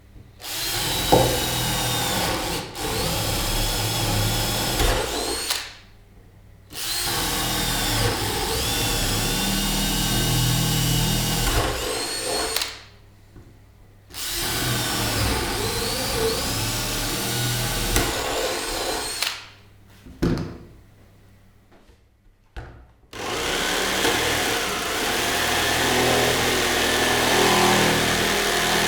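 Handheld power tool motor running in four bursts of several seconds each, with short pauses between them; its pitch wavers as it works.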